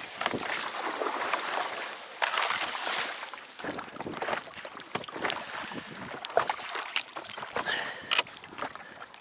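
Small boat moving on water: splashing and sloshing with irregular knocks and clicks, the sound of paddling or working a boat through the water.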